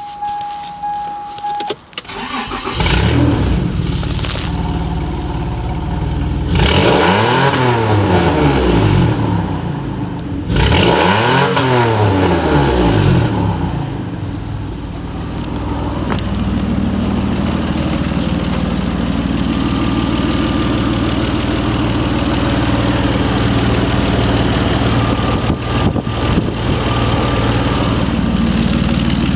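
Toyota Land Cruiser 80's 1FZ-FE 4.5-litre straight-six petrol engine starting: a steady beep for about two seconds, then the engine cranks and catches. It is revved twice, each rev rising and falling, then settles into a steady idle.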